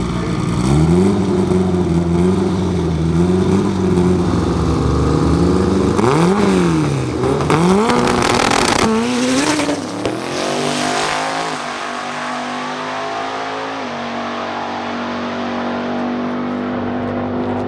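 Drag racing car engine revving hard. Its pitch jumps about a second in and wavers for a few seconds, then rises and drops sharply several times. For the last few seconds it settles to a steady drone.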